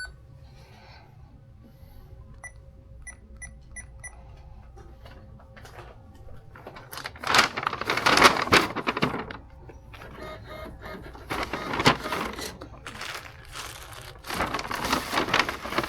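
Checkout-counter sounds during payment: a quick run of five short electronic beeps from the point-of-sale terminal, then three louder bursts of rustling and clattering noise as the sale is finished and bagged.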